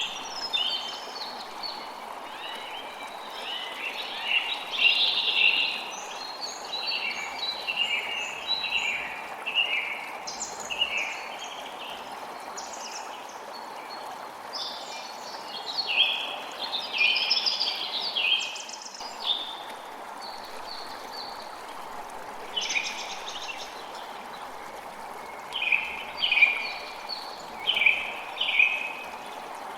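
Songbirds chirping in short, rapid bursts over a steady rush of running water. The calls come in clusters, busiest around the middle and near the end.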